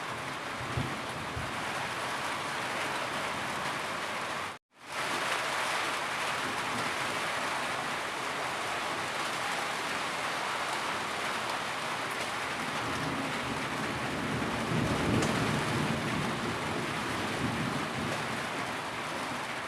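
Steady heavy rain falling, a dense even hiss of drops. The sound cuts out for a split second about four and a half seconds in, then resumes.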